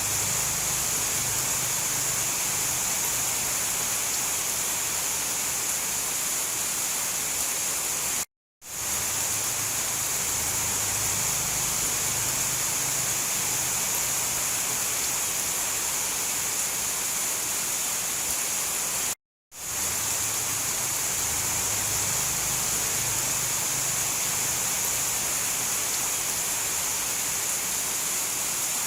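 Steady heavy rainfall, a dense even hiss with a bright high edge. It cuts to silence for a split second twice, about eight and nineteen seconds in.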